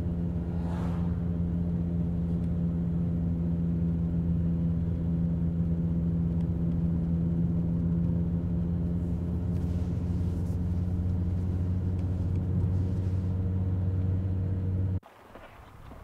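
Car engine and road noise heard from inside the cabin while cruising on a highway: a steady low drone that cuts off abruptly near the end.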